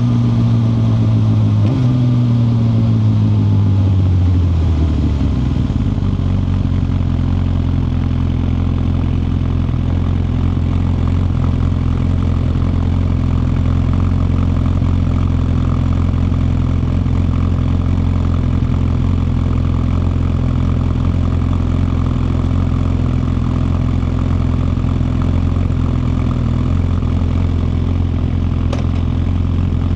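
Suzuki GSX-R1000R's inline-four engine coming off the throttle: the pitch falls over the first few seconds, with a brief step up about two seconds in as it is shifted down. It then settles at a steady low idle for the rest of the time.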